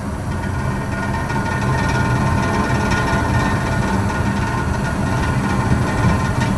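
Goodman 80% gas furnace running: a steady mechanical hum from the burner and blower, with some rattling.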